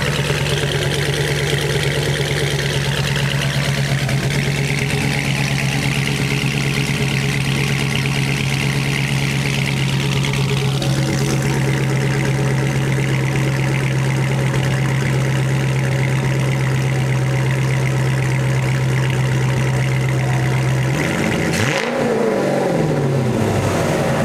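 Chrysler 300C SRT8's 6.1-litre Hemi V8, with a custom-grind cam and SLP LM1 exhaust, idling steadily just after its first start as the cam settles. Near the end the throttle is blipped once and the revs rise and fall back.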